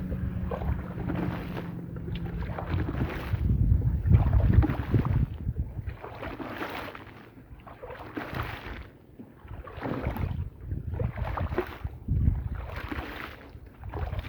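A soaked, muddy rug being worked over with a cleaning tool in repeated wet swishing strokes, about one a second, over a low steady hum.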